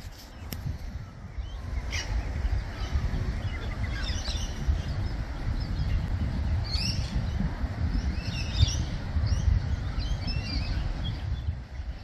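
Several birds chirping and calling in short, scattered phrases, over a steady low rumble.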